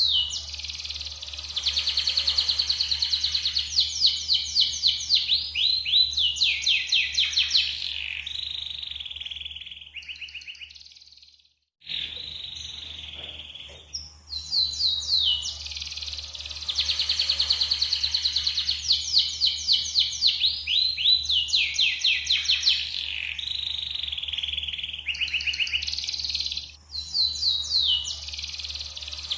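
Yellow canary singing long, rapid trills and warbled phrases. The song drops out completely for about a second just over a third of the way in, then carries on. A steady low hum runs underneath.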